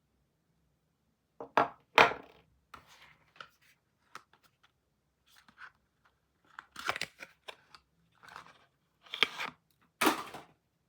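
Soap packaging being torn open and crinkled by hand, in a string of short separate rustling bursts with pauses between, the loudest about two seconds in and near the end.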